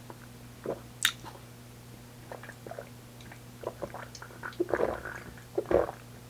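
Close-miked chewing and mouth sounds of a person eating, scattered small clicks and wet bursts, with one sharp click about a second in. A faint steady hum sits underneath.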